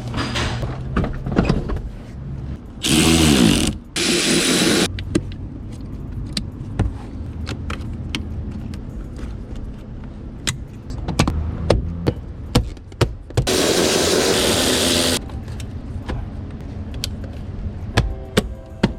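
A power tool runs in three short bursts, spinning up at the start of the first, as fasteners are driven during reassembly of a truck's interior trim. Between the bursts come scattered clicks and knocks of parts and tools being handled.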